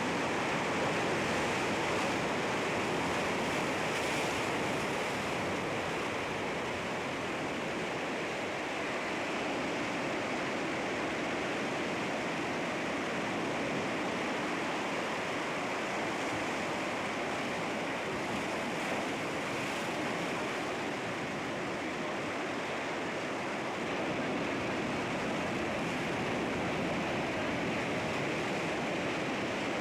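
Sea waves washing against rocks: a steady rush of surf with no distinct breaks.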